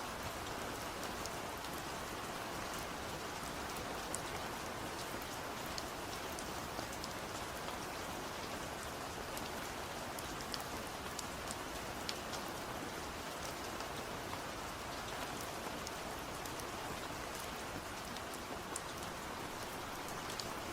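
Steady rain falling, a continuous hiss with scattered sharp drip and drop ticks.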